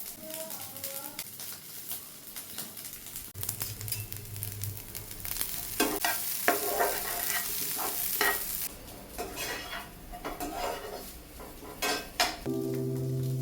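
Fried rice frying in a kadai, sizzling while a spatula stirs and scrapes it against the pan in a run of clicks. The sizzle gets louder for a few seconds around the middle. Guitar music comes in near the end.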